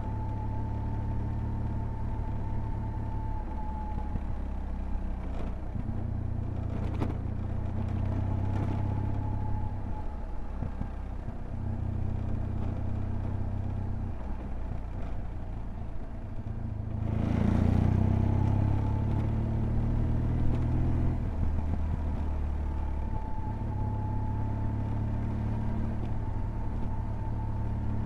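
BMW R1200GS boxer-twin engine running under way from the rider's seat. The engine note steps up and down with the throttle, over a steady high whine, and a louder rush of noise comes about two-thirds of the way through.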